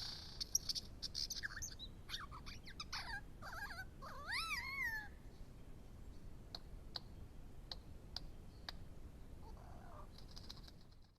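Superb lyrebird singing: a quick run of varied, sweeping whistled notes that rise and fall, then a few single sharp clicks spaced well apart. The sound cuts off suddenly near the end.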